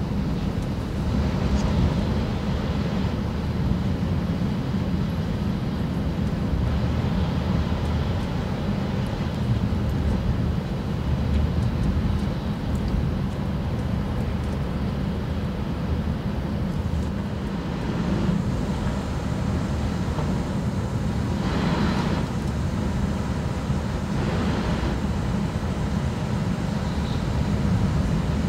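E6 series shinkansen running at high speed, heard inside the passenger car: a steady deep rumble and rush of running and wind noise. Twice in the latter part there is a brief louder hiss.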